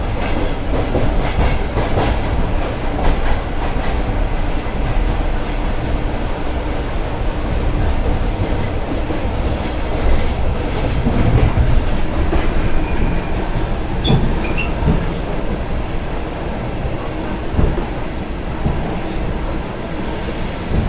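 Passenger train running along the track, heard from inside the carriage: a steady loud rumble with the clatter and knocking of the wheels over rail joints.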